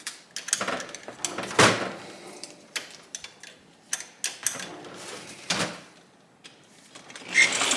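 Scattered metallic clunks and clicks from a 1971 Honda SL125 engine's gearbox being shifted by hand into fourth gear, the sharpest knock about two seconds in.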